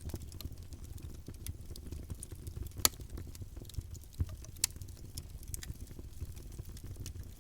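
Campfire burning: a steady low rumble of the flames with irregular crackles and pops from the burning wood, the sharpest pop a little under three seconds in.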